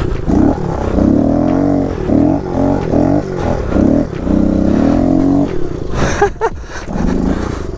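Kawasaki KLX110 pit bike's small single-cylinder four-stroke engine being ridden, its revs repeatedly rising and falling as the throttle is worked. The engine drops away about two-thirds of the way through, a few sharp knocks follow, and it revs briefly again near the end.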